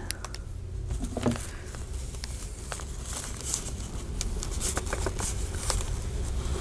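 Paper rustling and crinkling, with scattered small taps and clicks, as a freshly glued paper piece is handled and pressed down on a journal page.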